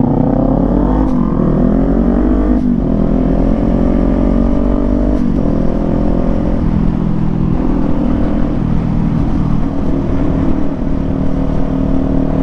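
Kawasaki Z400 parallel-twin on an aftermarket exhaust accelerating, its revs climbing with two quick upshifts, one a few seconds in and another about five seconds in, then settling into a steady pull.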